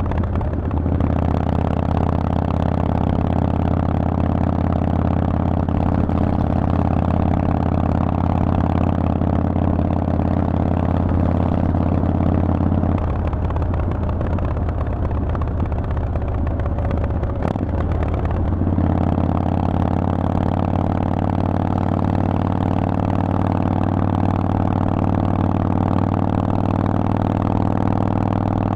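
Harley-Davidson Forty-Eight's air-cooled 1200 cc V-twin running through a Vance & Hines aftermarket exhaust at a steady engine speed. A little before halfway the steady note drops away for about five seconds, then the steady note returns.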